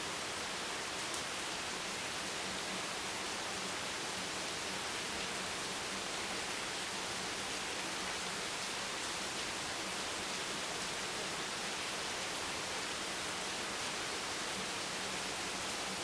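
Steady rain, an even hiss with no single drops or changes standing out.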